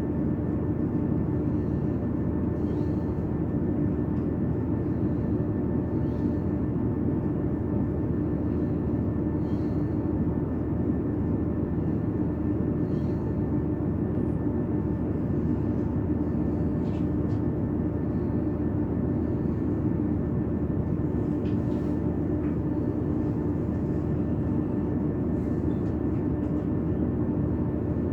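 Steady running noise of a passenger train heard from inside the carriage: a constant low rumble with a steady hum, and faint light ticks about every three seconds.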